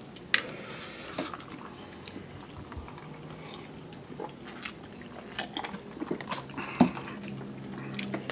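Close-up eating sounds: chewing and biting, with scattered wet clicks and smacks and a sharper crunch near the end. The food is spicy noodles with chopped siling labuyo chilies, which are crunchy.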